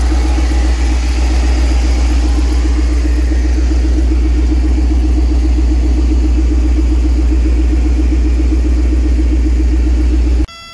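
Small-block Chevy 350 V8 in an Isuzu NPR cabover idling steadily with an even pulse, its engine bay open under the tilted cab. The sound cuts off abruptly near the end.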